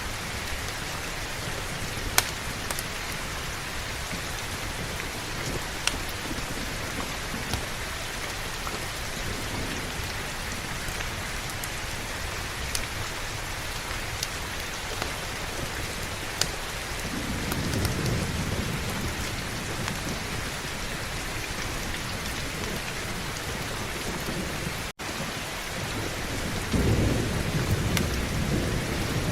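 Steady heavy rain with low rolls of thunder, one about 17 seconds in and another building near the end. There are occasional sharp pops from a crackling wood fire, and the sound cuts out for an instant about 25 seconds in.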